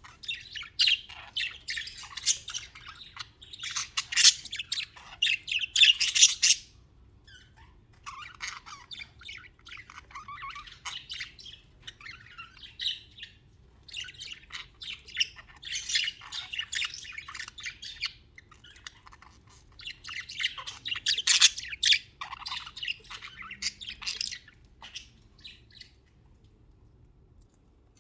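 Budgies (budgerigars) chattering: rapid high warbling chirps and squawks in several spells a few seconds long, with short quiet gaps between them.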